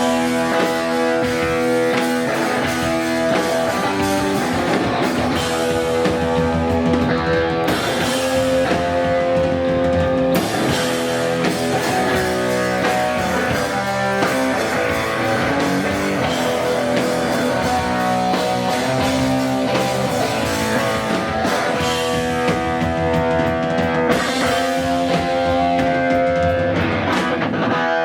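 A hardcore punk band playing live, with distorted electric guitars, bass and a drum kit.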